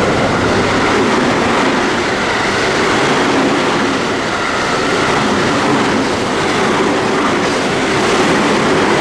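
Train passing through a station at speed: a loud, steady rush and rattle of wheels on rail.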